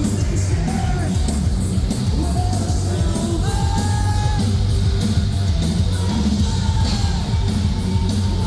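Metalcore band playing live at full volume, with heavy drums and cymbals, distorted guitars and bass, and vocals over the top.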